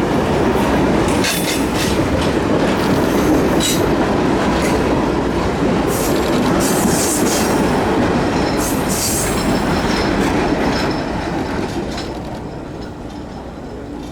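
Reading & Northern 2102 steam excursion train rolling past, a steady rumble of wheels on rail with several short high-pitched wheel squeals. The sound fades away over the last few seconds.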